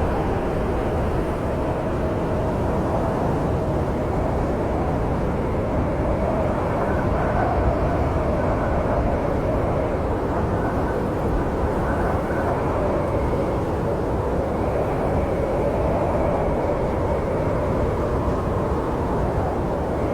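Snowstorm wind blowing steadily: a dense, low rushing noise with a faint wavering whistle running through it.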